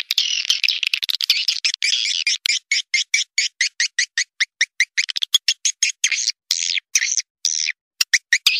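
Swiftlet calls from a lure recording used to draw birds into a swiftlet house: a fast, dense run of sharp clicking chirps. A few longer twittering calls come after the middle, with a short break near the end.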